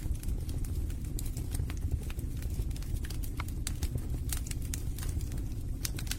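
Wood fire burning in a fireplace: irregular sharp snaps and pops of crackling logs over a steady low rumble of the flames.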